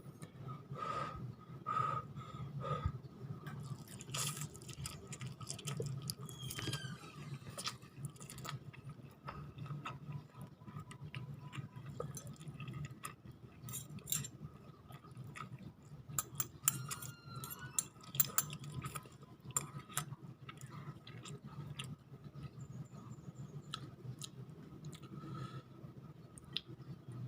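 A person eating noodles and chicken sticks close to the microphone: a long run of wet chewing, smacking and small crunches with many short clicks, over a steady low hum.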